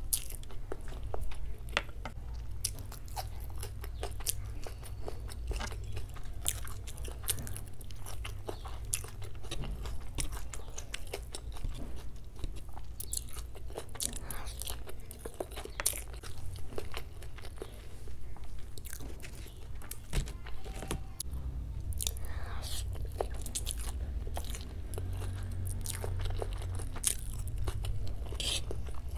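Close-miked chewing of chow mein noodles, with many quick, irregular wet mouth clicks and crunches over a low steady hum.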